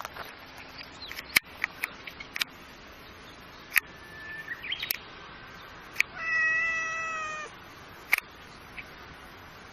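A cat meows once, a single long call of just over a second with a slightly falling pitch. Several sharp clicks or taps sound around it.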